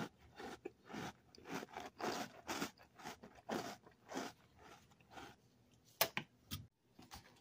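Close-up chewing of a mouthful of crunchy Quisp corn cereal in milk, a crunch about twice a second. Near the end come a few sharp clicks as the metal spoon knocks against the bowl.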